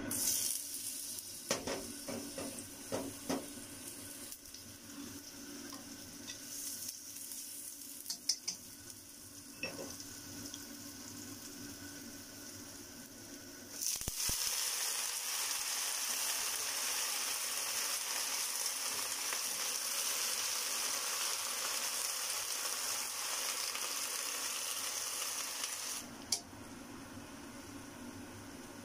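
Hot oil in a wok sizzling lightly, with a few clicks and taps, as minced garlic is tipped in. About halfway through, chopped bok choy hits the oil and a loud, steady frying sizzle starts, which cuts off sharply a few seconds before the end.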